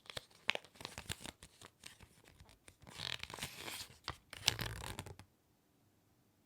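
Hands handling a figure's packaging: a run of sharp clicks and taps with two stretches of rustling, stopping about five seconds in.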